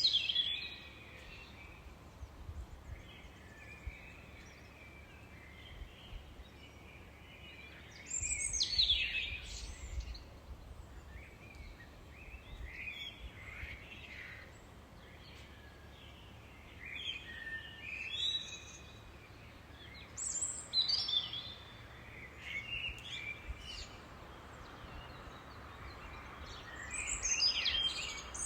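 Songbirds singing in short phrases of chirps and trills every few seconds, the loudest about eight seconds in and near the end, over a steady faint low rumble.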